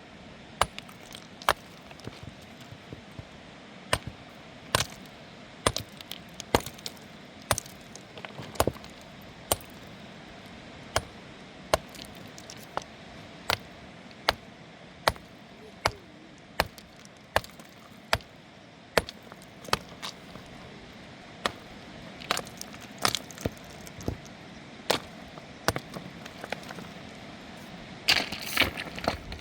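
A hand tool striking something hard over and over, about one sharp crack a second, each with a short ring; the blows grow busier and louder near the end.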